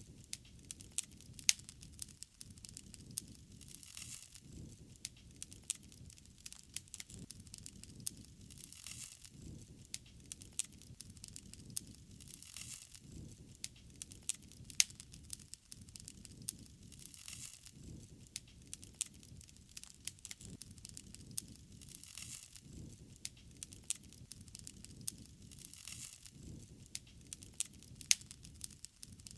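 Wood fire burning, crackling with many sharp pops and snaps over a low rumble of flames, with a soft hiss that swells every few seconds.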